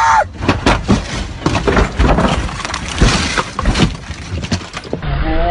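Car crash: a string of bangs and knocks with glass breaking and debris clattering, lasting several seconds.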